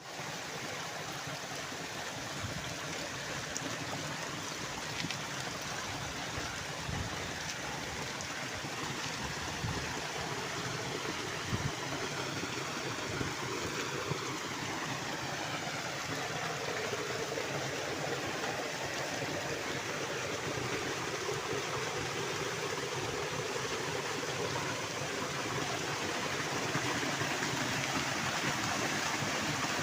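A steady rushing noise, even throughout with no distinct events.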